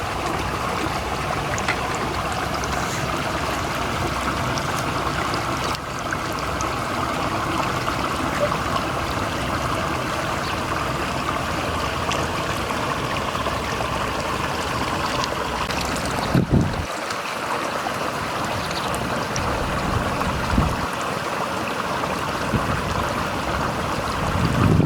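Steady rush of flowing water, with a few short low thumps in the second half.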